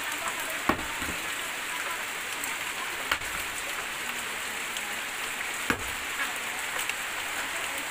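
Steady rain, with three sharp axe chops into wood about two and a half seconds apart.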